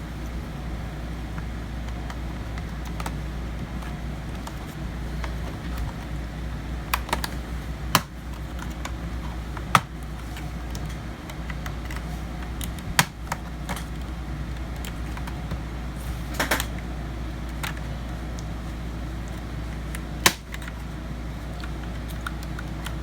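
Plastic snap clips of a laptop's palm rest clicking loose as it is pried off the base: about half a dozen sharp snaps spread out over a steady low hum.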